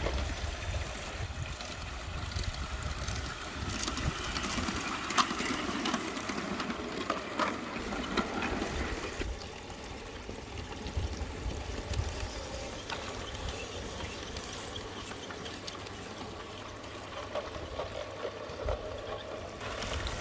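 G scale model train running on an outdoor garden track, with wind rumbling on the microphone and scattered light clicks; the sound changes about nine seconds in.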